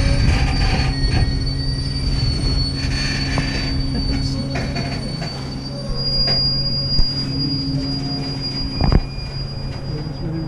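White Pass & Yukon Route narrow-gauge passenger train rolling along the track, its wheels squealing in a steady high whine over a low rumble, with a couple of short knocks in the second half.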